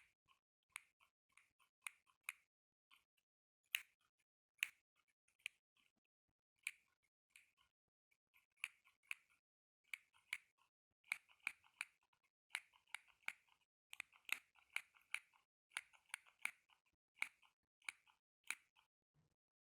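ASMR tapping: short, sharp taps and clicks on a small object, irregular and sparse at first, then coming in quicker clusters from about halfway through.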